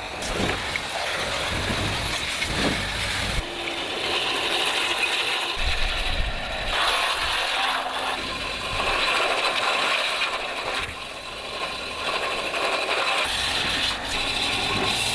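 Metallic rattling and clicking of tools and parts being handled, over a continuous noise that shifts every few seconds.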